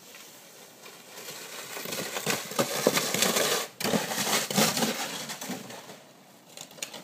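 Crunching and scraping on snow that swells over a couple of seconds and then fades away.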